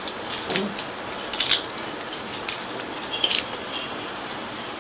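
Dry smoked fish being broken apart by hand, with irregular crisp crackles and snaps, the loudest about one and a half seconds in and again near the end. Birds chirp with short high notes in the background.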